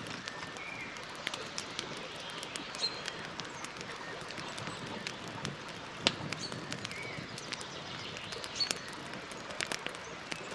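Campfire crackling: a steady hiss of burning wood with frequent sharp pops and snaps, the loudest about six seconds in. A few short bird chirps sound in the background.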